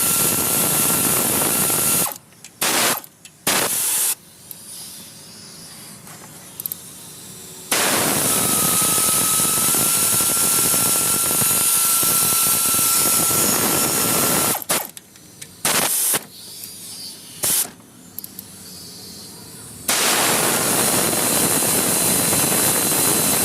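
Compressed air hissing from a pneumatic shop tool in three long bursts of several seconds each, with short blasts and quieter gaps between them.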